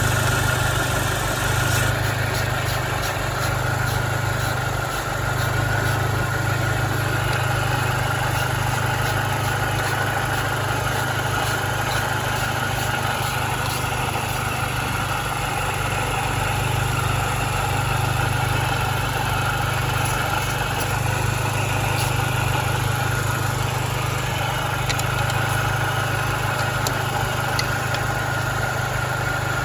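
Mini Cooper S R53's supercharged four-cylinder engine idling steadily through an aftermarket Gravity Systems exhaust, with a few faint clicks over it.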